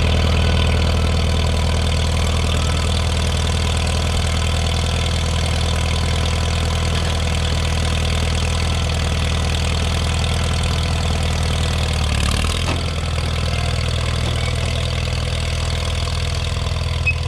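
International 2444 tractor engine running steadily at an even speed, with a slight change in its note about twelve seconds in.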